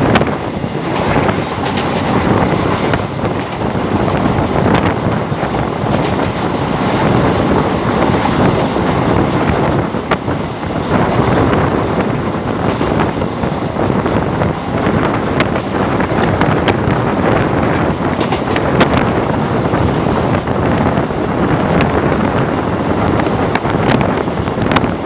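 Running noise of a moving train heard from its open window or door: a steady rumble of wheels on rails mixed with wind buffeting the microphone, with a few sharp clicks now and then.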